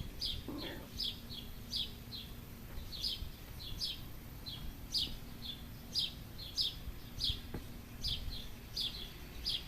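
A bird calling outdoors with a series of short, high chirps that each fall quickly in pitch, repeating about one to two times a second.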